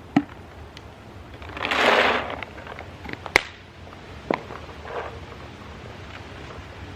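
Smart Parts Shocker SFT paintball marker being test-fired after a rebuild: a few sharp pops, with a longer burst of air-like noise about two seconds in.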